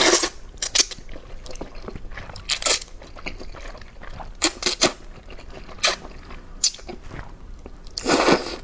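Close-miked eating of luosifen (river snail rice noodles): quiet chewing broken by about six short, sharp noisy mouth sounds, the loudest near the end.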